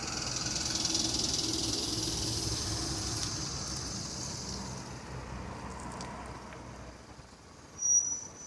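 Asa Seaside Railway dual-mode vehicle in bus mode: its engine runs under a loud hiss, and both fade away over several seconds. Near the end comes a brief high-pitched beep.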